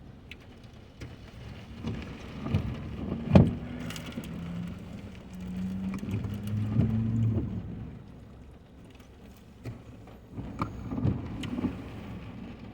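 Car driving in the rain, heard from inside: steady road and rain noise, with a sharp knock about three and a half seconds in and a low hum for a few seconds after it.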